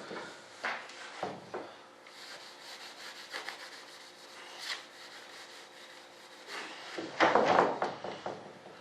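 Paste wax being rubbed onto a wing mold with a sock, in short scrubbing strokes. There is a louder stretch of rubbing about seven seconds in.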